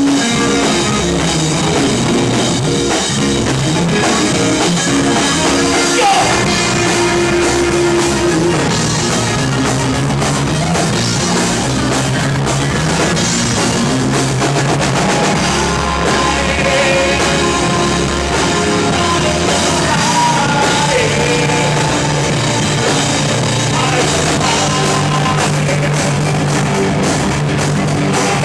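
Rock band playing live, with a drum kit and electric guitars played loud and without a break.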